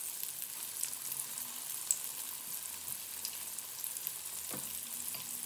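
Flour-dredged chicken pieces frying in hot oil in a pan: a steady sizzle with scattered crackling pops.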